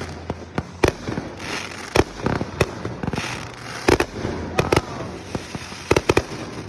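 Aerial fireworks bursting close by: a rapid, irregular series of sharp bangs, several a second at times, with crackling between them.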